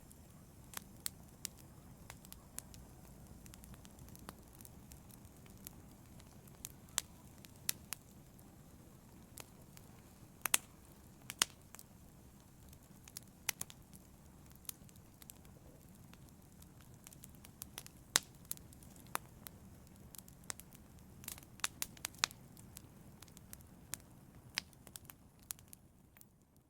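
Wood fire crackling in a fireplace: irregular sharp pops and snaps over a low, steady rumble of burning. It fades out near the end.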